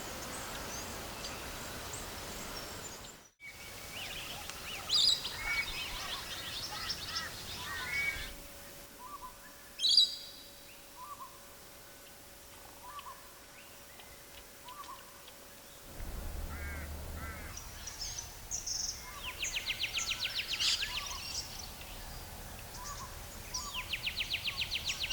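Wild birds calling: short chirps and whistled notes, with fast trills about three quarters of the way through and again near the end. The soundscape cuts abruptly about three seconds in.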